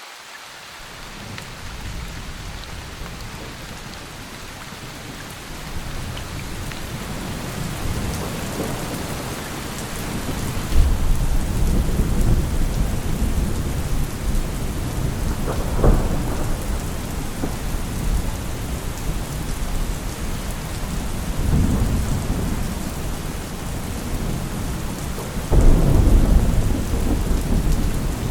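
Thunderstorm: steady heavy rain with rolling thunder that builds from the start, with loud low rumbles about eleven seconds in and again near the end, and a sharp crack around the middle.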